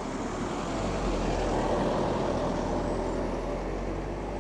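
A road vehicle, likely a heavy one, passing by: a rough rushing noise that builds, peaks about two seconds in and slowly fades, over a steady low rumble.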